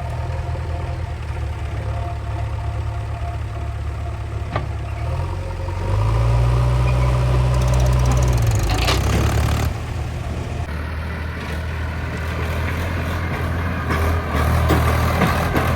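Heavy diesel engine running steadily, its note getting louder and heavier for about three seconds from about six seconds in, then again near the end, as it takes load. A couple of sharp knocks are heard.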